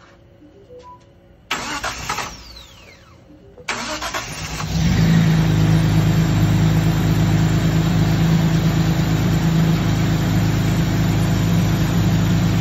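Datsun 240Z's freshly installed L28 2.8-litre straight-six cranked with the starter, a first short burst that does not catch, then a second crank that catches about four to five seconds in and settles into a steady idle. The ignition timing has just been set.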